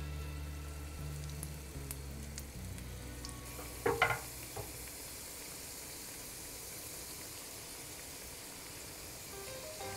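Shrimp-fritter batter frying in hot oil in a pan, a steady sizzling hiss. About four seconds in, a short clatter of utensils against a glass mixing bowl.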